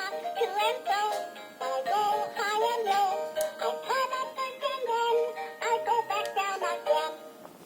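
Minnie Mouse roly-poly teapot toy playing its built-in electronic tune with a synthetic singing voice, stopping shortly before the end.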